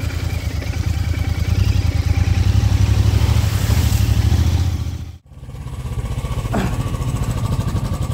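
Royal Enfield motorcycle engine running with a rapid, even exhaust beat. It cuts off abruptly about five seconds in and comes back straight away.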